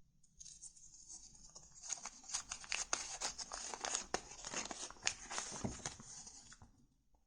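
Paper or cards being handled close up: a dense crackling, rustling run of small clicks. It builds from about half a second in, is busiest in the middle, and stops shortly before the end.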